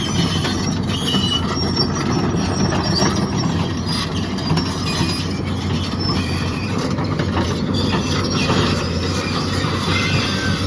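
Tracked excavator's Cummins diesel running under load while the machine is worked, with a dense mechanical clatter and short high metal-on-metal squeals throughout.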